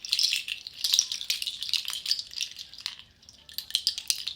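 A percussion shaker rattling: a dense, continuous patter of small hard grains that swells and eases, loudest about a second in and again near the end.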